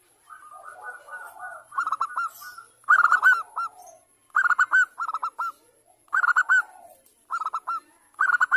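Zebra dove (perkutut) calling: a soft rolling coo, then a series of short phrases of quick, staccato cooing notes with brief pauses between them.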